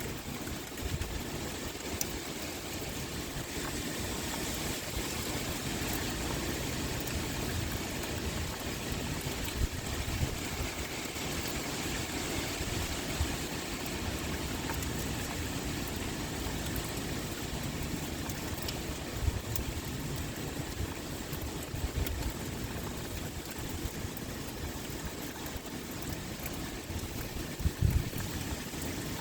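Steady pouring rain, with wind gusting in an uneven low rumble. Scattered sharp drop ticks sound through it, and there is a brief louder low thump about two-thirds of the way in and again near the end.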